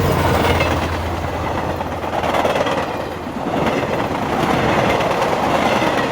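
Train running on the rails, its wheel and rail noise swelling twice. A low steady hum fades out in the first two seconds.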